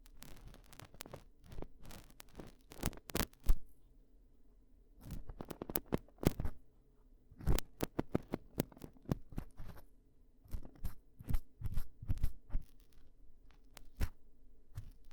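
Ear-cleaning ASMR sounds: a cleaning tool scraping and rubbing right against the microphone, a dense, irregular run of crackly scratches with a few louder sharp clicks.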